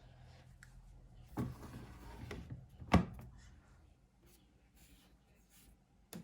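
A washing machine's detergent drawer being handled: a short sliding scrape, then one sharp clunk about three seconds in as it is pushed shut.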